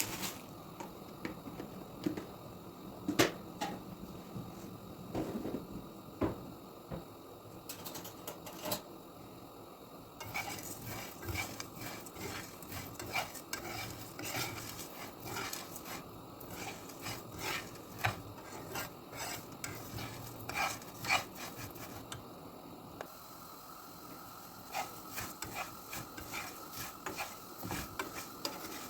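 A utensil stirring and scraping in a cooking pan, with repeated irregular clinks against the pan and a faint sizzle of frying food.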